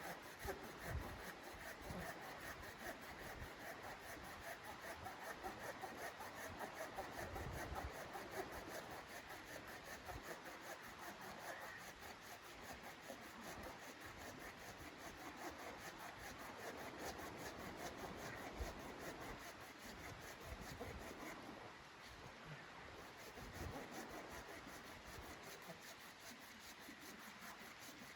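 Continuous rubbing and scraping with scattered low knocks.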